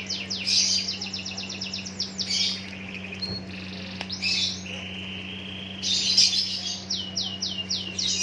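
A songbird singing in several bursts of fast trills and quick series of falling chirps.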